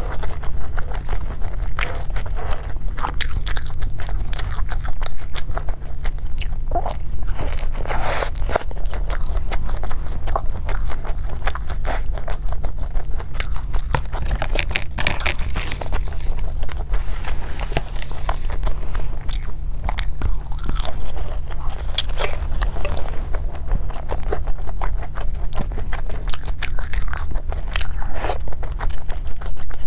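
Close-miked crunching and chewing of a crispy fried spring roll, many irregular crackly bites, over a steady low hum.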